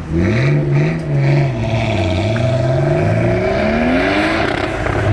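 Car engine revving hard and accelerating, its pitch climbing and falling several times, then one long climb that drops off near the end.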